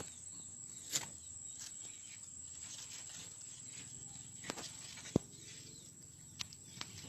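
A few scattered sharp clicks and knocks, the sharpest about five seconds in, over a faint steady high-pitched whine and hiss.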